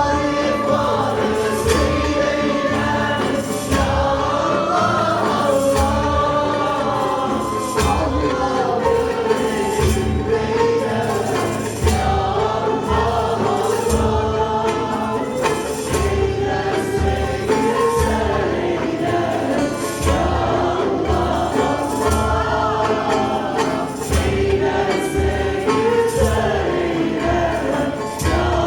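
Music: a group of voices singing a melody together over a steady, regular drum beat with a jingling percussion edge.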